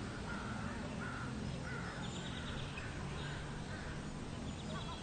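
Birds calling over a steady low background murmur: a few short calls, and twice a quick high trill, about two seconds in and again near the end.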